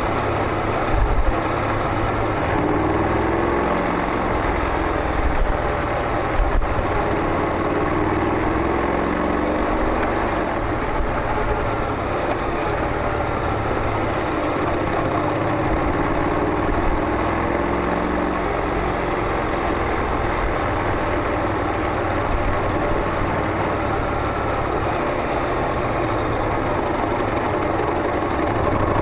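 Honda NC700X's parallel-twin engine running through a Beams slip-on muffler. The exhaust note is steady, with its pitch drifting up and down a little and a few brief louder blips early on.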